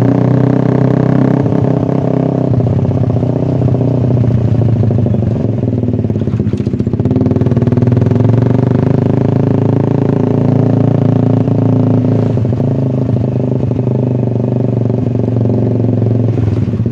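Suzuki Satria F150 fuel-injected motorcycle's single-cylinder engine running through an SC Project aftermarket exhaust, a loud, steady exhaust note that stays at much the same pitch throughout.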